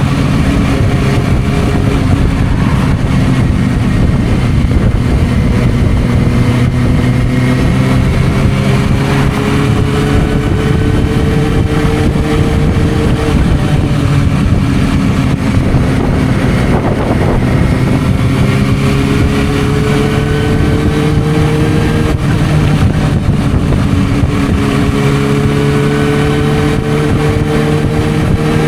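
Suzuki GSR600's inline-four engine through a Dominator aftermarket exhaust, riding at moderate revs. The pitch climbs slowly in each gear and drops back at several gear changes.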